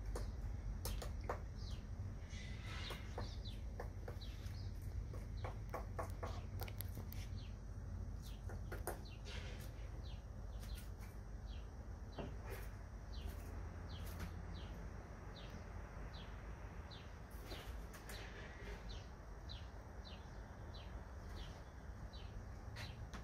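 Woodpecker pecking on a wooden fence: sharp, irregular knocks, thickest in the first half. Short falling bird chirps repeat about twice a second through the second half.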